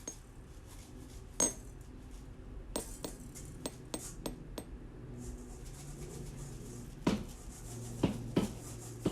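Scattered light clinks and taps of small hard objects, a quick run of them between about three and five seconds in and a few heavier knocks near the end, over a low steady hum.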